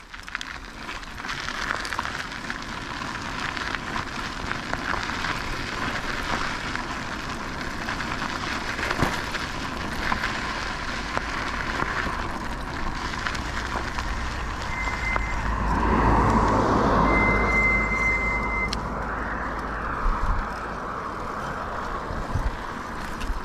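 Road traffic going by, with a steady rush of wind and road noise. A heavy vehicle passes close about two-thirds of the way in, the loudest moment, with two brief high steady tones.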